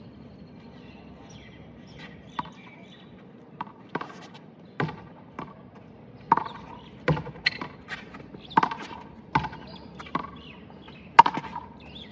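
A rubber handball slapped by a bare hand and rebounding off the wall and court floor in a rally: a string of sharp, irregular smacks, often in quick pairs.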